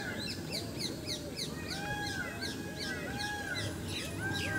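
Birds calling: a clear, arched call repeated over and over, under many fast, high, short chirps.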